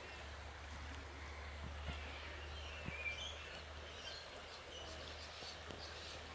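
Bushland ambience: faint scattered bird chirps over a low steady rumble, with a few soft knocks.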